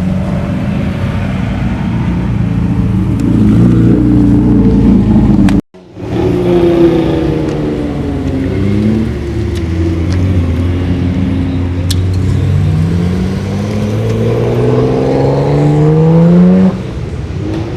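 Classic Japanese car engines running as cars drive off. About six seconds in, a short break in the sound cuts between cars. Later an engine's pitch rises steadily as a car accelerates away, then stops abruptly near the end.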